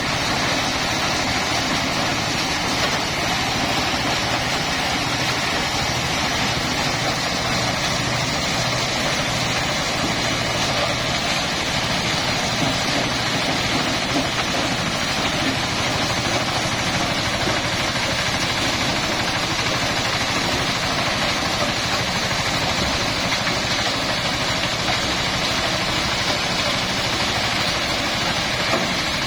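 Corn threshing machine running steadily on a trial run: a continuous, unchanging engine-driven mechanical noise.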